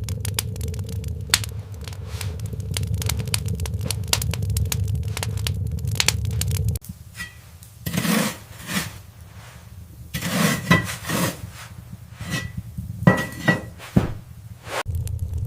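A steady low rumble with many small crackling clicks cuts off suddenly about seven seconds in. A run of clinks and scrapes follows, some of them ringing like metal or crockery. The rumble comes back near the end.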